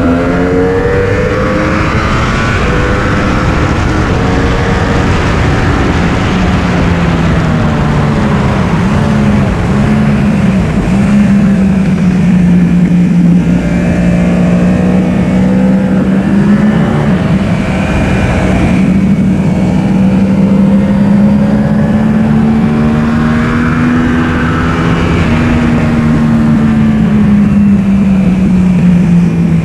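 Yamaha R1 sport bike's inline-four engine running hard on track, its pitch rising and falling as the rider works through the revs. Heavy wind rush comes through on the onboard microphone.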